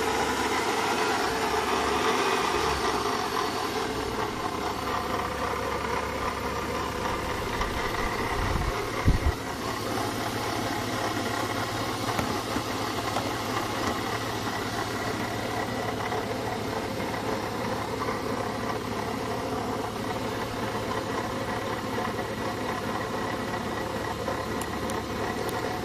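BMW E36 320i's M50B20 straight-six idling steadily, with the noise of a failing water pump. A brief low thump about nine seconds in.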